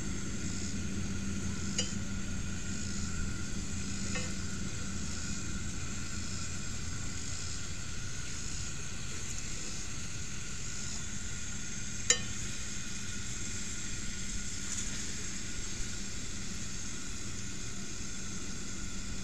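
Flour-dredged chicken legs frying in grease in a cast iron skillet, a steady sizzle. A fork clicks against the skillet a few times as the pieces are turned, loudest about twelve seconds in.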